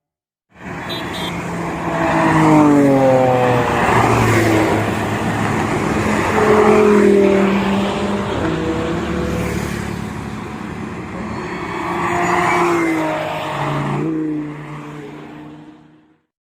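Supercar engine running hard, its note climbing and dropping again and again as it revs and accelerates. It starts about half a second in and cuts off just before the end.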